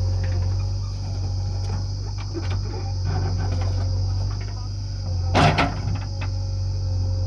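JCB 3DX backhoe loader's diesel engine running steadily under a constant high-pitched buzz. A short, loud clatter about five and a half seconds in.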